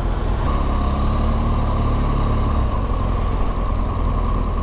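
Motorcycle riding along in traffic: a low engine note that rises for the first two or so seconds, under a steady rush of wind and road noise.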